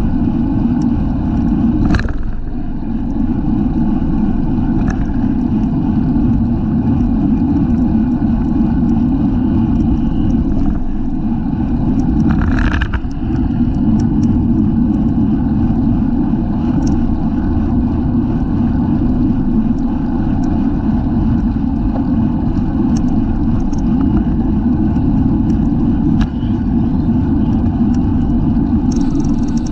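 Steady, loud wind rush over the microphone of a camera mounted on a racing bicycle moving at speed. Two brief louder noises come through, one about two seconds in and one near the middle.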